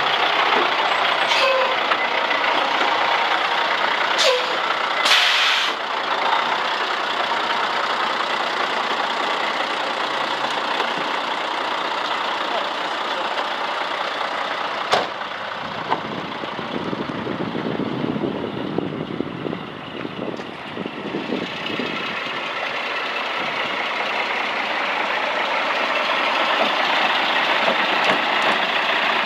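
2003 International 7000 truck's diesel engine running steadily, with a short hiss about five seconds in and a sharp click about halfway through.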